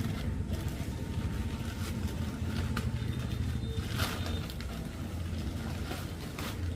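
An engine running steadily with a low rumble, with a few short sharp clicks over it, the clearest about four seconds in.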